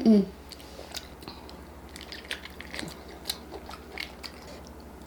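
Close-miked eating sounds of someone chewing seafood: soft wet mouth clicks and small crunches scattered through, with no steady rhythm.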